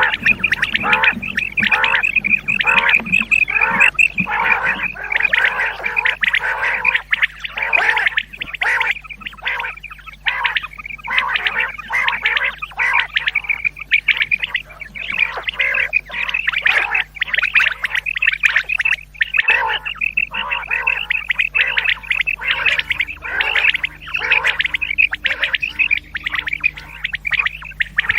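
Common quail calling over and over in quick, dense, overlapping phrases, as on a lure tape used for quail hunting. A low steady hum runs underneath.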